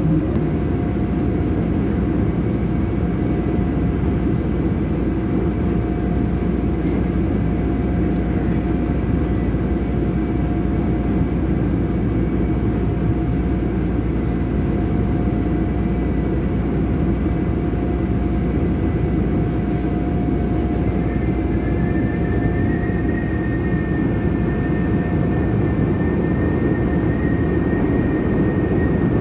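Chicago 'L' elevated train running between stations, heard from inside the car: a steady rumble with a thin steady whine, joined by a second, higher whine about three-quarters of the way through.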